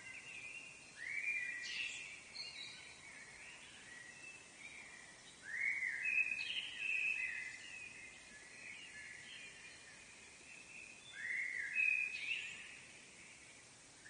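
A songbird singing in three phrases about five seconds apart, each a quick rising sweep followed by a run of warbling, held notes, over a faint steady hiss of forest ambience.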